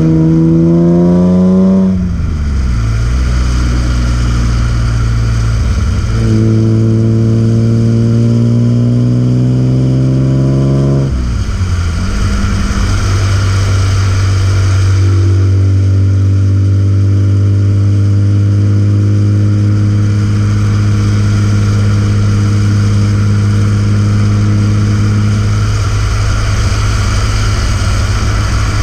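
BMW E36 M3's S50B30 straight-six engine and exhaust under load: revs climb and fall back about two seconds in, climb slowly again until about eleven seconds in, then drop and hold steady for the rest.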